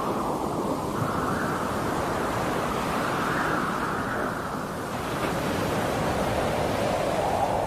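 Wind blowing, a steady rushing noise that slowly swells and eases.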